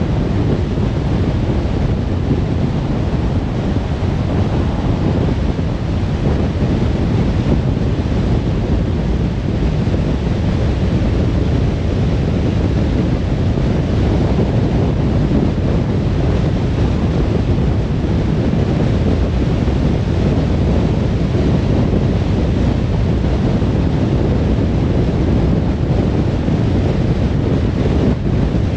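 Steady road noise of a car driving along: an even rumble of tyres and rushing wind that holds constant.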